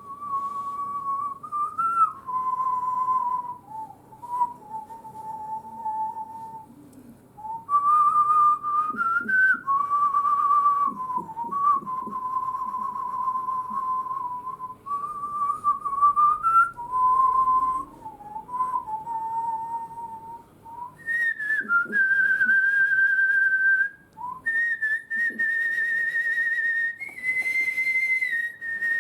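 A person whistling a slow melody: clear held notes with short slides between them, in phrases separated by brief pauses. The tune climbs higher for the last several seconds.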